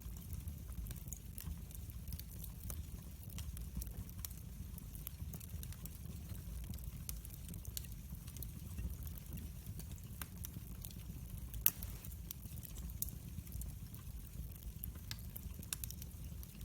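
Wood fire in a fireplace crackling: scattered sharp pops and snaps over a steady low rumble of the flames, with one louder pop about two-thirds of the way through.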